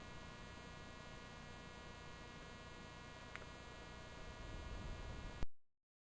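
Faint steady electrical hum and buzz, many evenly spaced tones, with a single small tick about three and a half seconds in; it cuts off abruptly to total silence about five and a half seconds in.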